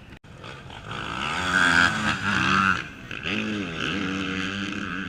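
Off-road racing motorcycle engine revving up and down as the throttle is worked. It grows loud about a second in, drops briefly near three seconds, then picks up again.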